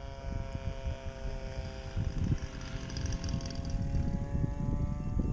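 Twin 12-bladed electric ducted fans of an RC Me 262 jet running with a steady many-toned whine whose pitch creeps slightly upward. Irregular low rumbling buffeting runs under it.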